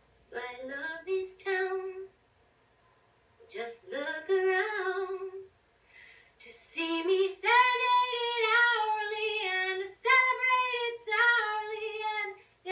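A woman singing solo in three phrases, with audible breaths drawn between them.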